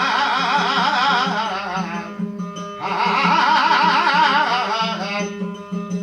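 Marathi devotional abhang music: two long wordless melodic phrases with a wide, wavering vibrato over a steady low drone with a rhythmic pulse, broken by a short gap about two seconds in.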